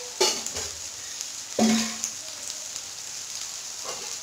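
Eggplant pieces frying in oil in a kadai, a steady low sizzle. Steel spice containers clatter a fraction of a second in, and about one and a half seconds in a metal container is set down with a clank and a short ring.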